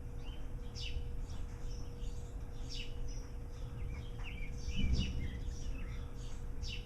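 Birds chirping outdoors: short, quickly falling high calls every second or two, over a low rumble of wind on the microphone.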